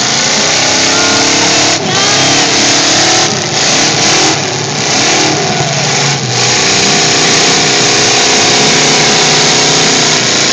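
Demolition derby car engines revving hard, their pitch rising and falling.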